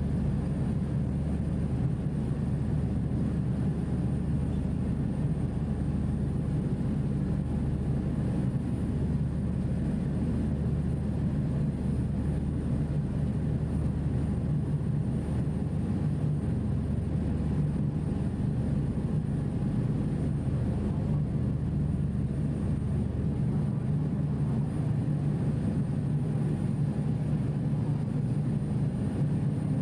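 Passenger ferry's engines running in a steady low drone, heard on board during the crossing.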